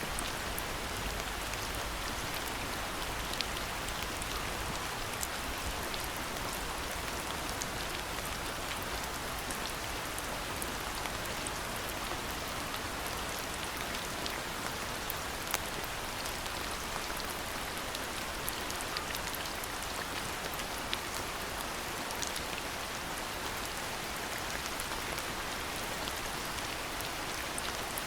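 Steady rain falling, with the sharp ticks of single drops hitting surfaces close by.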